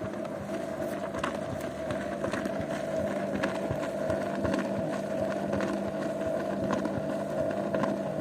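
Zanussi washing machine running, its motor whining steadily as the drum turns, with water sloshing and many small knocks from the load.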